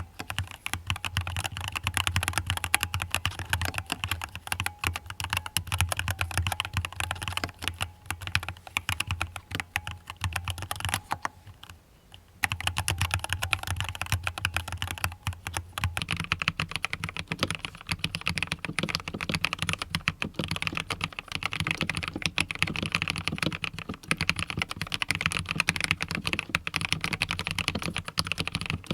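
Fast continuous typing on a mechanical keyboard, a dense clatter of key clicks with a brief pause about eleven seconds in.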